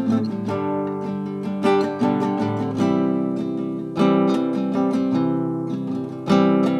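Acoustic guitar strumming chords at a slow, even pace, with a fresh strum about every two seconds and the chords ringing on between them.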